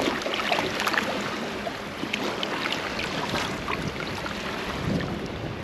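Steady outdoor noise of water and wind around a small boat, with scattered small clicks and taps.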